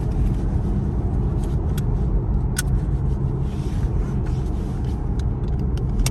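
Chevrolet Camaro SS V8 on its stock exhaust, running at a steady cruise and heard from inside the cabin as an even, low rumble.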